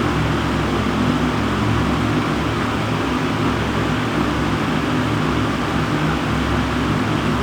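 Panasonic bathroom exhaust fan running steadily, drawing air. It makes an even airy rush with a low motor hum underneath, unchanging throughout.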